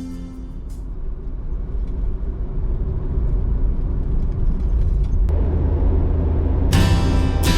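Low, steady vehicle rumble, like road and engine noise of a car under way, growing louder over the first few seconds. Background music comes back in near the end.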